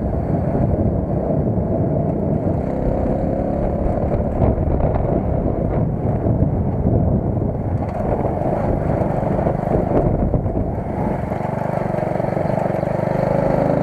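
A car driving: steady engine and road noise.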